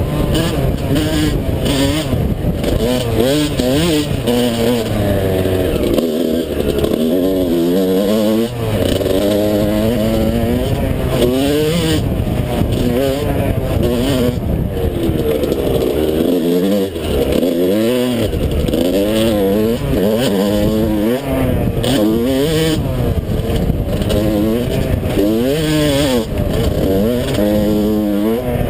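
Yamaha YZ125 two-stroke single-cylinder engine being ridden hard, revving up and dropping off over and over as the throttle is opened and shut, its pitch climbing and falling every second or two.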